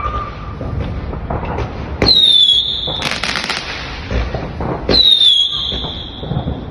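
Fireworks going off: twice a sharp whistle that drops in pitch and then holds a steady high note, with a burst of crackling between them.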